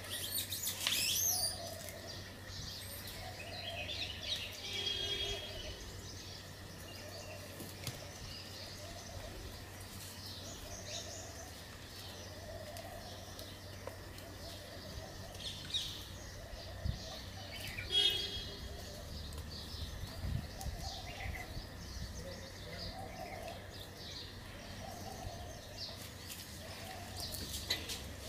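Birds chirping: scattered high chirps, with a soft low call repeating every second or two.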